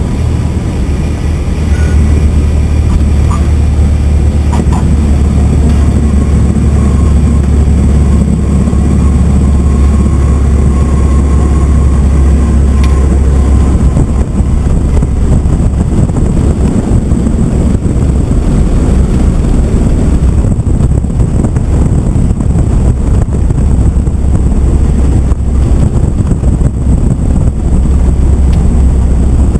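Cessna 172's piston engine and propeller running with a steady, loud low drone.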